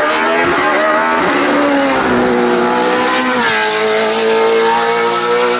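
Race car engine running hard under load on a hillclimb, its pitch dropping and climbing again with gear changes, about three and a half seconds in most clearly.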